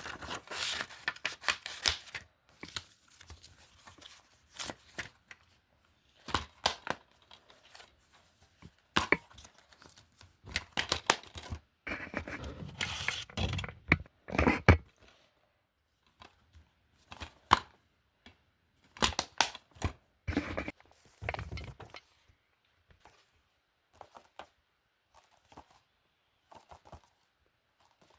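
Plastic DVD and Blu-ray cases being handled. Irregular clicks, knocks and rustles, busiest about twelve to fifteen seconds in.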